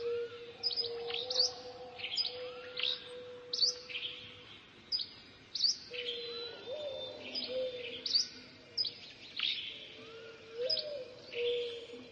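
Small birds chirping: short, sharp high calls that sweep quickly downward, repeated every second or so, over a steady low tone.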